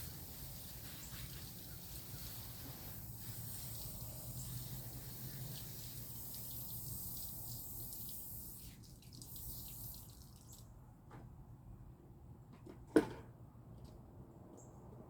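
Faint running water that stops about ten seconds in, followed by a single sharp knock a few seconds later.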